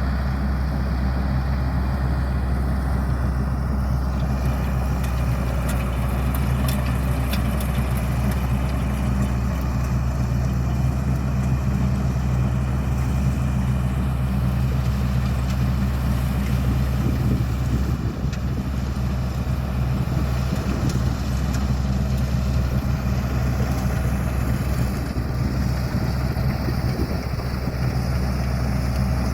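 Combine harvester engine running steadily with a deep, even hum.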